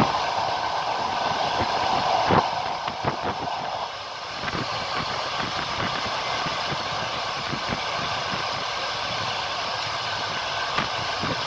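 Train's wheels rolling over the rails with a steady rushing noise and irregular clicks over the rail joints, one sharper knock about two seconds in; the rushing gets quieter about four seconds in.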